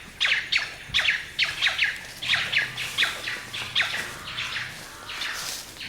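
Bird calling: a rapid series of short, high notes, each dropping in pitch, about three a second, thinning out toward the end.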